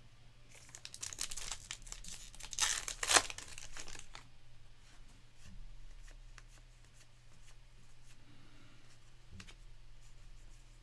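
A foil trading-card pack wrapper being torn open and crinkled, loudest about three seconds in, followed by quieter handling of the cards.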